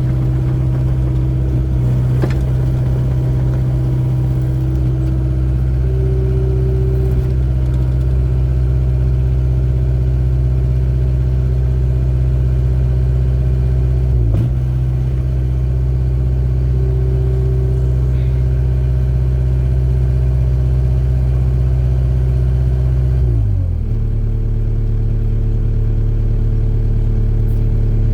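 Excavator's diesel engine running steadily while digging. Its pitch dips briefly about halfway through, then drops to a lower, different note near the end.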